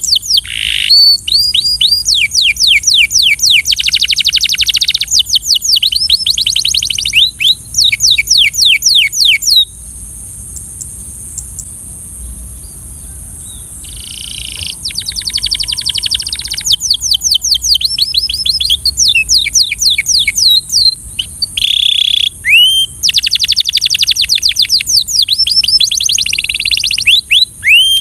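Canary singing in fast trills of rapidly repeated, downward-sweeping notes, phrase after phrase, with a pause of a few seconds near the middle before the song resumes.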